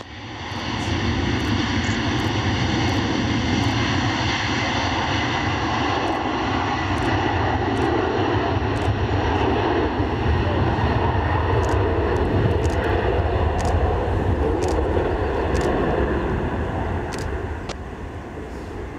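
Airliner engines running steadily close by: a loud rush of noise with several high whining tones. The sound eases off near the end.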